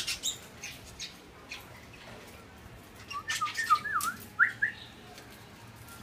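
Small birds calling around bread put out for them: a few short sharp sounds at first, then a busy burst of sharp sounds and quick dipping-and-rising calls between about three and five seconds in.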